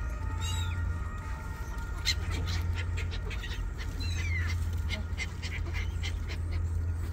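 Birds calling: many short, sharp calls, with a falling cry about half a second in and another about four seconds in, over a steady low hum.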